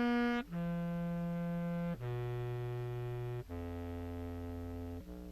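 Contrabass clarinet, picked up by an in-bell microphone, playing through a Dream Machine pedal set to no pitch shift and used as a drive, which gives little more than a boost. Four long, steady notes step down in pitch, each about a second and a half long, and a short higher note begins near the end.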